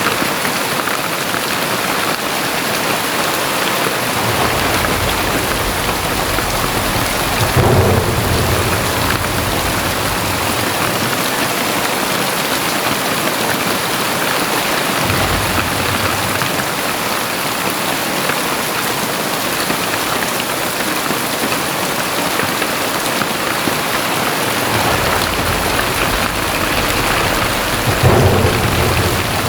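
Very heavy rain falling in a steady, loud downpour, with deep low rumbles swelling in and out, loudest about eight seconds in and again near the end.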